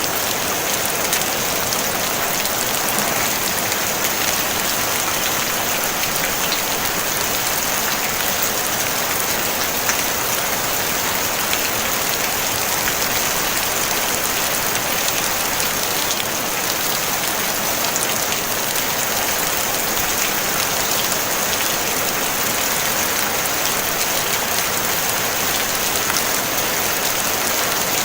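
Steady, even rain falling on a tin roof, a constant hiss dense with tiny drop ticks and no thunder.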